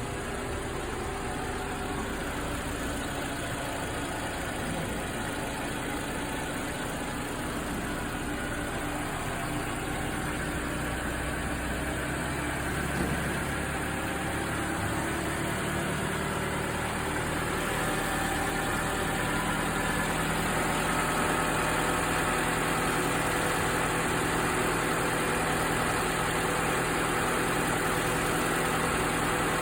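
Lexus RX270's 1AR-FE 2.7-litre four-cylinder petrol engine idling steadily just after its first start. About seventeen seconds in its note shifts a little and gets slightly louder.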